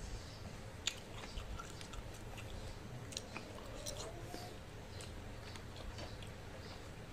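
Close-up wet chewing and mouth clicks of someone eating rice and soy-sauce-braised chicken feet by hand, with scattered sharp smacks; the sharpest comes about a second in.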